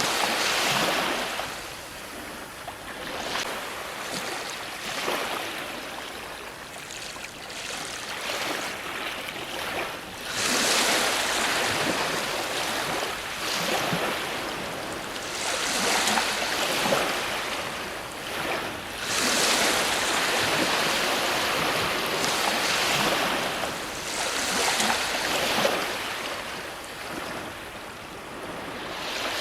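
Ocean waves breaking and washing onto a shore, the surf swelling and ebbing every few seconds, with several bigger breakers through the middle.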